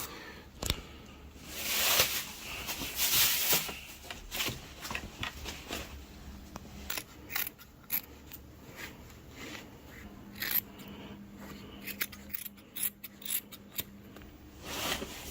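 Parcel packaging being cut open with scissors and torn off: two longer ripping swishes near the start, then a run of short snips and crinkles.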